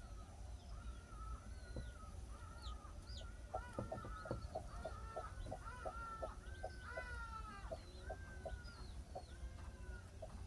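Chickens clucking, many short calls overlapping, with a run of quick clucks through the middle.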